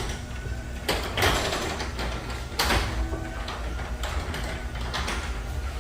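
Sectional garage door moving on its tracks, driven by a LiftMaster 8500W wall-mounted jackshaft opener: a low steady hum with repeated clunks and rattles from the rollers and panels. This is the quiet running that this side-mount opener is chosen for.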